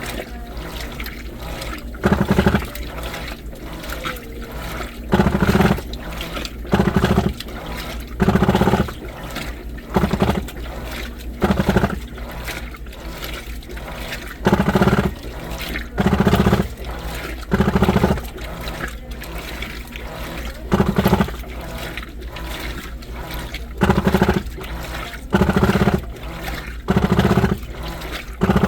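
New washing machine mid-wash: water sloshing in the drum, broken every one and a half to three seconds by a short, loud burst with a low hum as the drum is driven, the stuck noise the owner is concerned about.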